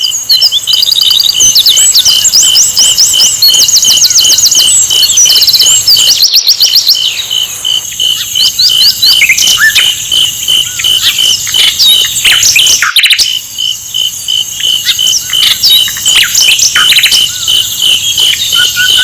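Sikatan londo (a flycatcher) singing: quick series of high rising-and-falling chirps and trills, over a steady, evenly pulsing insect-like tone that repeats about three times a second.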